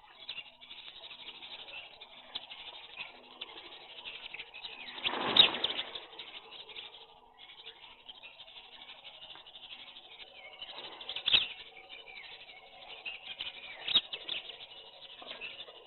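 A flock of feeding birds chirping steadily, with a burst of wing flapping about five seconds in and two sharp taps later on.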